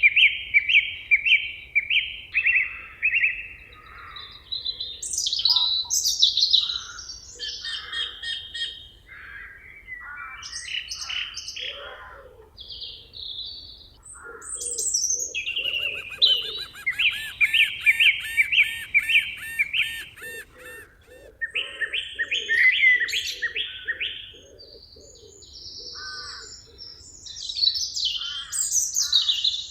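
Several songbirds singing at once in a forest chorus: overlapping trills, whistles and fast repeated chirps, with runs of lower repeated notes underneath.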